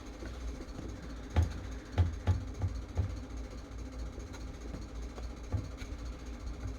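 A handful of light, sharp knocks and taps from tools being handled at a soldering bench, over a steady low hum. The taps bunch together in the first half, then one more comes near the end.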